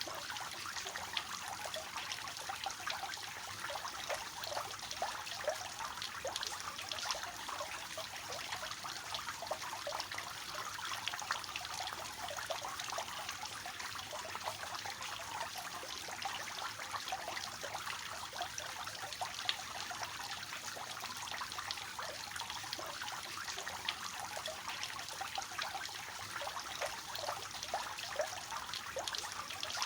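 Water falling from a three-tiered fountain, splashing and trickling steadily into the basins below.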